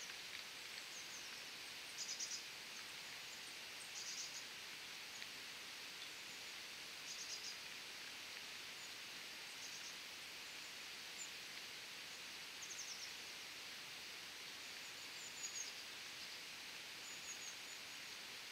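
A small bird's short, very high, rapid chirping calls, repeated every two or three seconds, with a few single high notes near the end, over a faint steady hiss of outdoor air.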